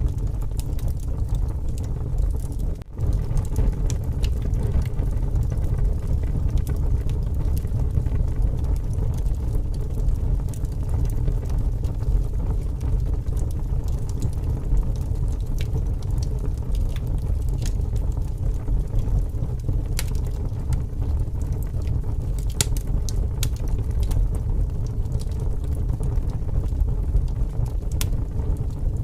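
Wood fire burning with scattered sharp crackles and pops over a steady low rumble of strong wind.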